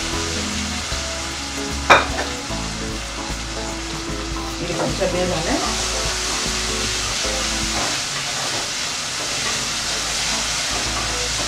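Washed red lentils sizzling in hot oil with the tempering in an aluminium pressure cooker, stirred and scraped around the pot with a plastic spatula. One sharp knock about two seconds in.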